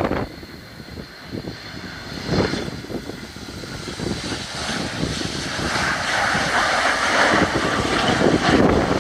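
Jet engine noise of a Boeing 757-200 growing louder over the second half, a broad rushing sound, with gusts of wind buffeting the microphone.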